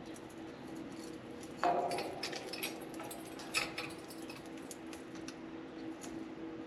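Budgies pecking and chewing at a soft-wood shredding toy: a run of small clicks and taps, with a sharp knock of the toy a little under two seconds in and another about halfway through.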